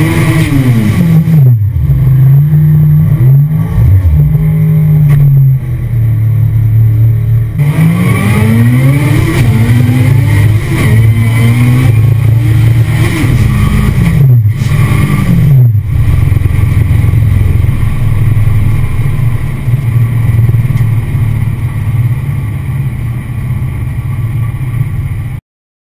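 Honda Integra engine heard from inside the stripped race cabin, revving up and dropping back several times as the driver pulls and shifts, then running at a steadier drone for the last stretch before cutting off suddenly near the end.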